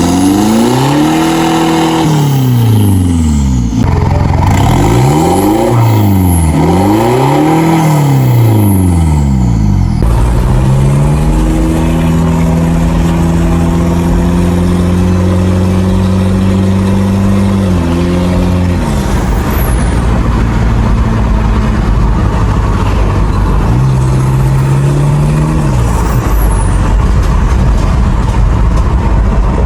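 Mitsubishi Pajero Dakar diesel engine through a full-system aftermarket exhaust, revved up and down three times, then held at raised revs for several seconds before dropping back to idle. One more short rev comes near the end.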